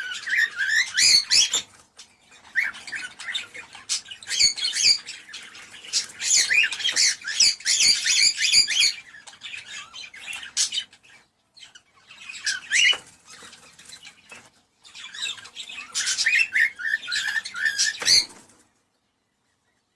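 Cockatiels chirping and squawking in quick, busy bursts with short pauses between them; the calls stop abruptly near the end.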